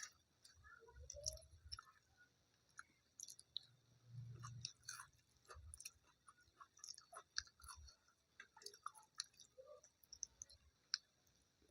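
A person chewing food quietly close to the microphone, with scattered small wet mouth clicks and soft low thumps.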